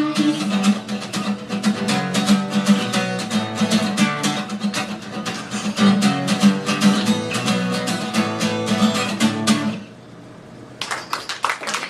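Acoustic guitar strummed through the song's instrumental ending, stopping about ten seconds in. About a second later, audience applause begins.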